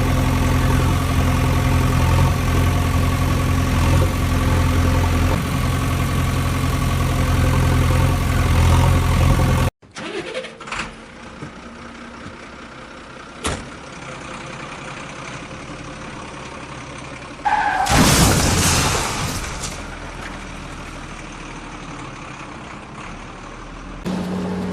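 A vehicle engine running steadily, then cutting off abruptly about ten seconds in. After that come a couple of sharp knocks, a loud noisy rush lasting about two seconds, and a steady low hum starting near the end.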